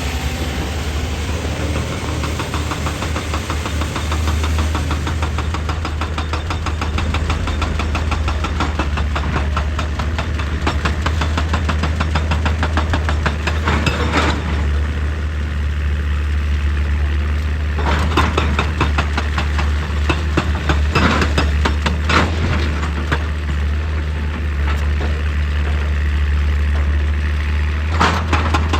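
Heavy excavator's diesel engine running steadily with a deep hum. A fast, even rattle comes in about five seconds in and stops about halfway. Several loud crashing hits follow, one near the end, as rock is struck and scraped.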